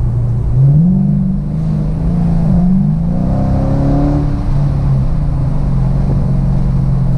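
Dodge Charger R/T's 5.7-litre Hemi V8 engine and exhaust accelerating under way. The pitch climbs about half a second in, drops sharply at a gear change around two and a half seconds in, and climbs again. After that it settles into a steady cruise.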